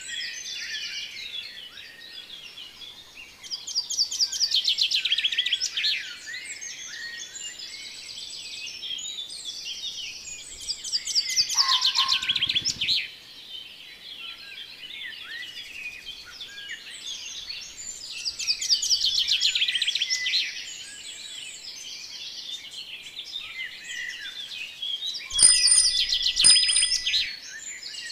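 Many small birds chirping and twittering together, with four louder bouts of rapid trilling spaced about seven seconds apart.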